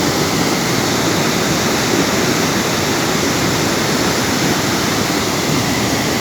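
Floodwater of a swollen river rushing past in a steady, loud roar of water.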